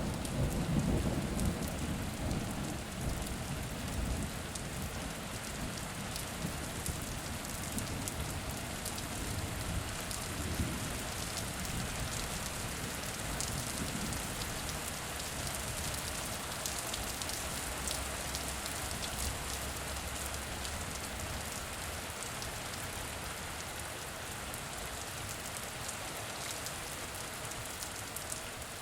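Steady rain falling on a surface, with fine patter of individual drops throughout. A low thunder rumble is strongest at the start and dies away over the first few seconds.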